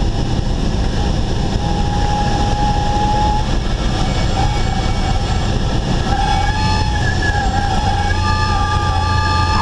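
Cessna 172 cabin noise with the engine at idle and the airflow rushing, while a wavering, reedy stall-warning horn tone sounds in the landing flare, first briefly about a second and a half in, then almost continuously for the last five seconds.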